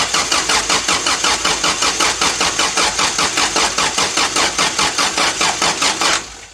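Toyota 4Y four-cylinder engine cranking over on the starter motor at an even rhythm of about four to five beats a second without firing, then cranking stops about six seconds in. The engine has just been installed, and the fuel has not yet reached the carburettor.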